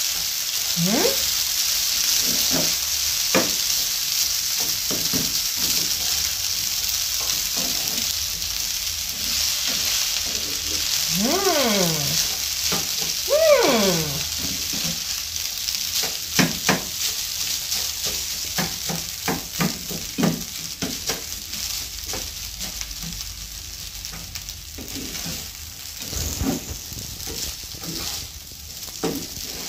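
Fried rice sizzling in a hot nonstick frying pan while a slotted plastic spatula stirs and turns it, scraping and tapping against the pan. Two short falling vocal sounds come about halfway through.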